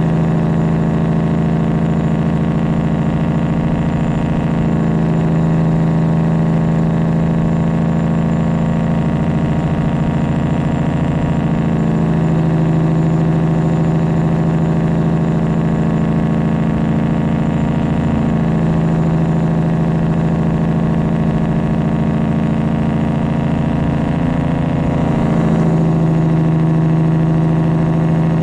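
Straight-piped Freightliner Classic XL semi truck with a 12.7-litre Detroit Diesel inline six, running steadily under way. Its pitch changes briefly four times, about every six or seven seconds.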